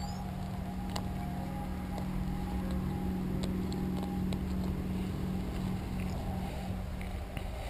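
An engine running steadily, a low hum that grows a little stronger midway, over a low rumble.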